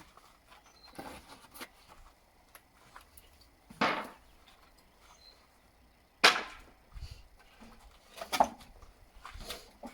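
Wooden pallet boards knocking: about six sharp, irregular knocks of wood, the loudest a little past the middle.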